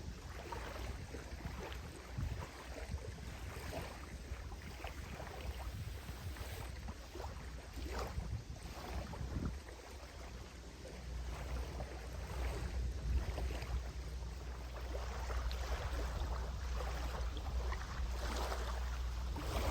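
Wind rumbling on the microphone outdoors, with scattered faint rustles and clicks over it.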